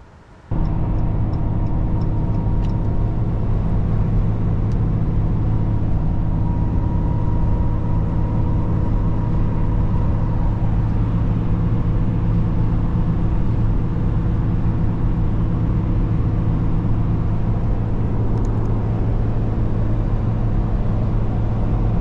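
A motor vehicle's engine running at a steady speed, a constant low hum that starts abruptly about half a second in.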